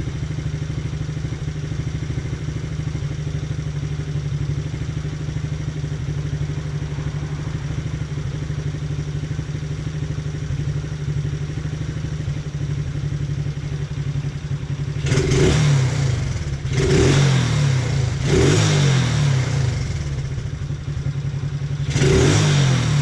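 Taotao 125 mini ATV's small single-cylinder engine idling steadily, then revved in three short throttle blips about fifteen seconds in and once more near the end. It runs without popping, its carburetor just readjusted after running too lean.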